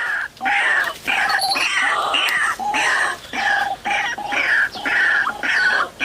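White-breasted waterhen calling: loud, harsh, repeated croaking phrases, about two a second with short breaks between them.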